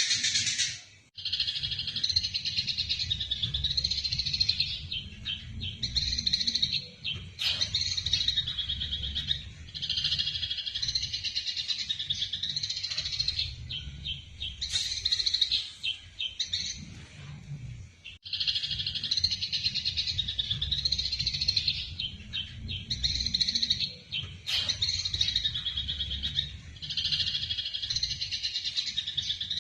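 Eurasian tree sparrows giving rapid, harsh chattering chirps in long unbroken runs: the agitated calls of sparrows fighting. The chatter breaks off briefly about a second in and again just past the middle. A low hum runs underneath.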